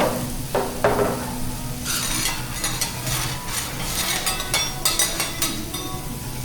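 Vegetables sizzling on a hot teppanyaki griddle, with metal spatulas scraping and clacking against the plate in a quick run from about two seconds in.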